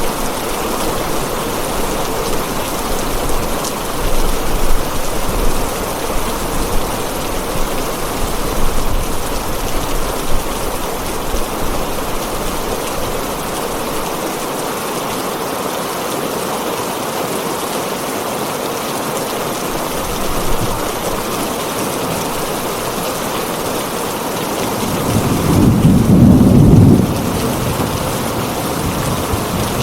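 Heavy rain drumming steadily on a tin roof, with a low roll of thunder about 25 seconds in that lasts about two seconds.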